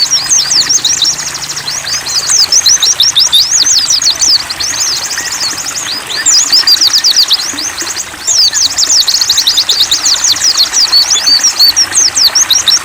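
Several white-eyes (pleci) singing in fast, high twittering runs of sweeping chirps, with a brief softer lull just past the middle, over a faint steady trickle of water.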